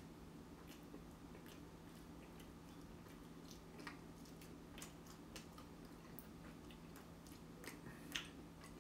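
Near silence with faint, scattered wet mouth clicks: a person chewing a mouthful of French toast pizza with mouth closed, over a steady low electrical hum.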